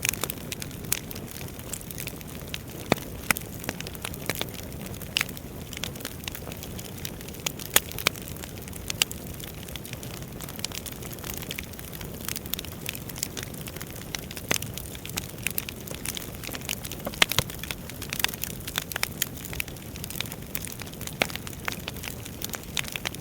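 Wood fire burning in a fireplace: irregular crackling and sharp pops over a steady low rush of flame.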